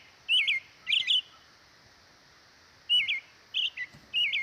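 American robin singing: short clear phrases in two groups, with a pause of about two seconds between them.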